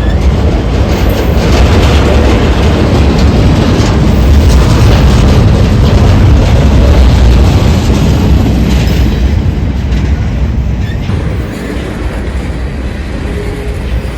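Freight train cars rolling past close by: a loud, steady rumble of wheels on rail that eases off somewhat about eleven seconds in.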